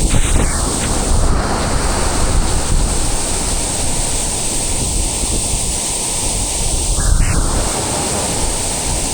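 Waterfall's water rushing in a loud, steady roar, with wind buffeting the microphone. Two brief louder surges come near the start and about seven seconds in.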